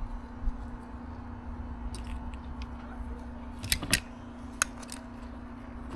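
A few light clicks and handling noises, spaced out over several seconds, against a steady low hum: small parts being handled during a car trim and camera installation.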